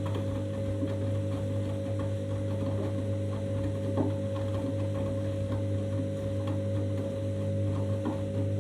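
Candy washing machine running in its 90-degree main wash: a steady motor hum with several steady tones from the drum drive, and faint light knocks from the tumbling load.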